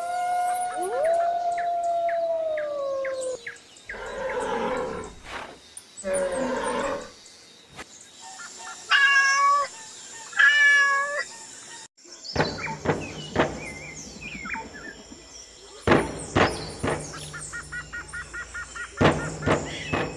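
Recorded animal sound effects: a long gliding howl over the first few seconds, then a string of other animal calls and sharp clicks.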